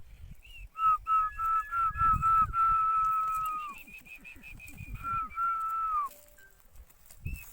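Human whistling: a few held notes, the last one sliding down in pitch, in two phrases. Behind it a bird chirps the same short note over and over.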